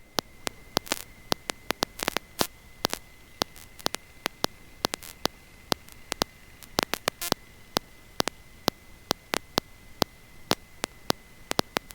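Electrical static on an aircraft intercom audio line: a low hiss with irregular sharp clicks several times a second and a faint steady high whine underneath.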